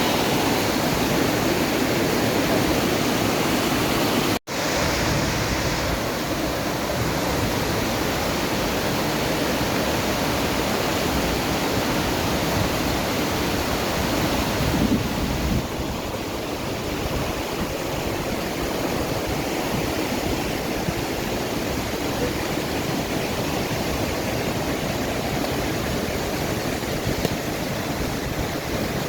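Waterfall rushing steadily, a dense even roar of falling water, with a brief cut to silence about four seconds in.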